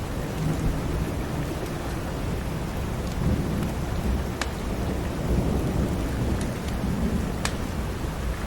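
Steady rain with a low rolling rumble of thunder that swells and fades several times. A few sharp crackles from a wood fire sound over it.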